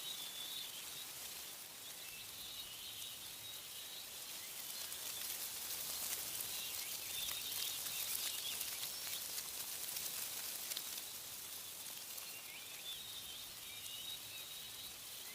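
Wind rustling through tree leaves, a steady hiss that swells louder in the middle, with small birds chirping faintly now and then.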